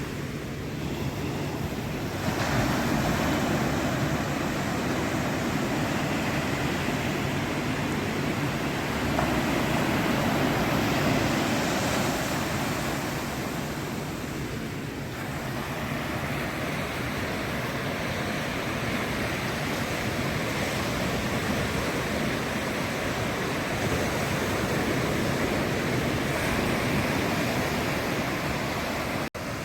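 Ocean surf washing onto a sandy beach: a steady rush of breaking waves that swells louder about two seconds in and again around ten seconds, then eases. A brief drop-out near the end.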